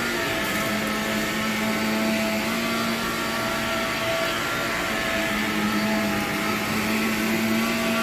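Vacuum motor running steadily with a hiss of suction as old nylon carpet is cleaned.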